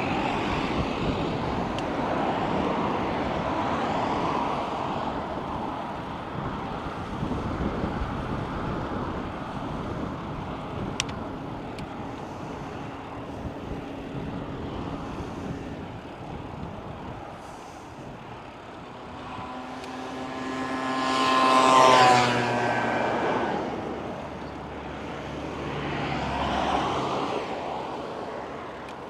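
Steady rush of wind and road noise, then a car passes about twenty seconds in, loudest as it goes by, its engine pitch dropping as it goes. A second, fainter vehicle swells and fades near the end.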